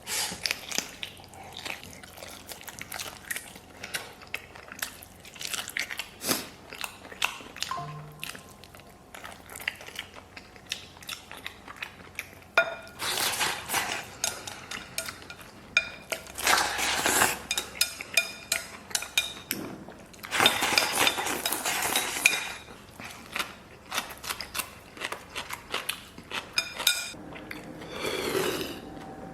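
Eating utensils clicking and scraping against a bowl as rice is shovelled into the mouth, in repeated short clinks. Three denser runs of scraping come about halfway through.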